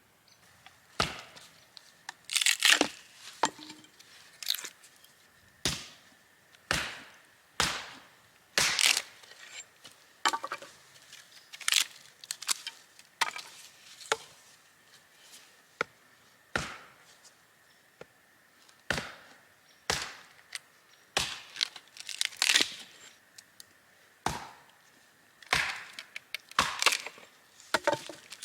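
Axe chopping firewood: sharp, cracking strikes into wood at an irregular pace, roughly one every second or two, some coming in quick pairs.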